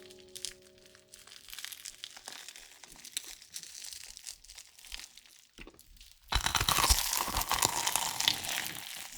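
Close-miked crinkling and crunching, faint at first, then suddenly much louder and denser about six seconds in. Background music fades out in the first second or two.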